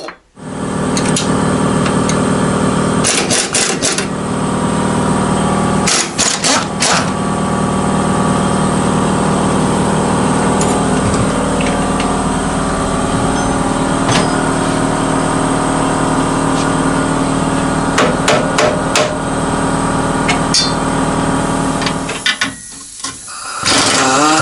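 Impact wrench hammering without a break for about 20 seconds while undoing the rear driveshaft bolts, then stopping near the end, with a few sharp metallic clicks along the way.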